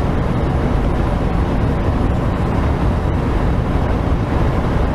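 Steady engine and road noise inside a semi-truck's cab while the truck is driving, an even low-pitched noise without change.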